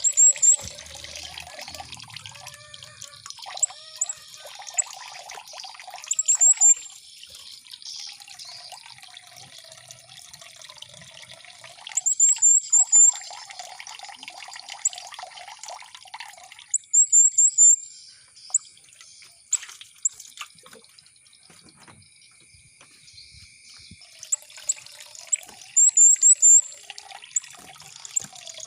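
Water trickling and gurgling steadily, with a small songbird breaking in several times with short bursts of rapid, very high chirps, the loudest sounds here.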